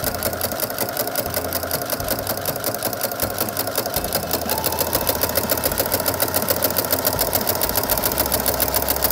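Brother NQ470L computerized sewing machine stitching with a walking (dual-feed) foot through quilt layers: a rapid, even needle clatter. A steady, higher motor whine joins about halfway through.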